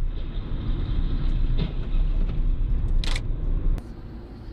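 A car's steady low road and engine rumble, picked up by a dashcam, with a short hissing burst about three seconds in. The rumble drops off sharply just before four seconds.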